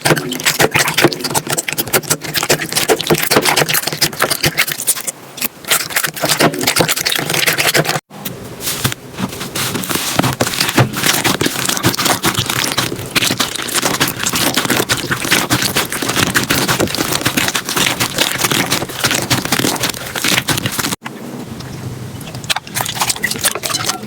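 Slime being squeezed and pressed by hand, a dense run of small crackles and clicks. It breaks off abruptly twice, about 8 and 21 seconds in, and starts again each time.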